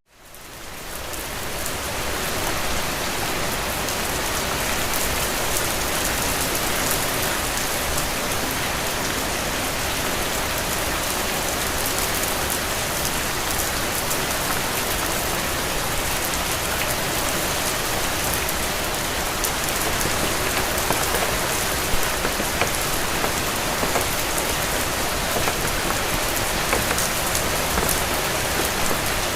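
Steady rain falling: a dense, even hiss with scattered individual drop taps. The sound drops out at the very start and fades back in over about two seconds.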